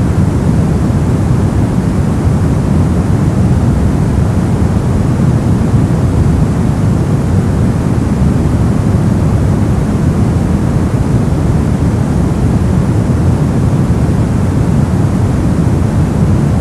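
Steady brown noise: an even, unchanging rumbling hiss weighted heavily toward the low end, with little treble.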